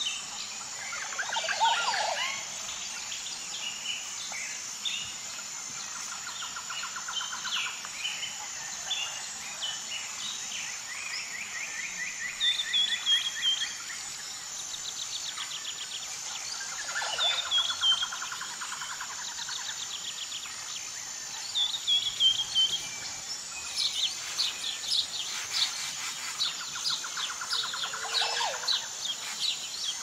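Songbirds singing one phrase after another: fast rattling trills, short falling phrases and quick chirps. Underneath runs a steady high-pitched buzz.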